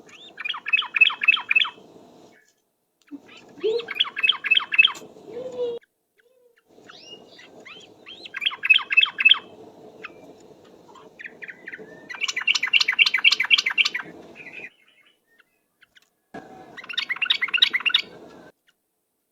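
Yellow-vented bulbul (trucuk) singing its rapid rolling 'ropel' song: five loud bursts of quickly repeated notes, each a second or two long, a few seconds apart.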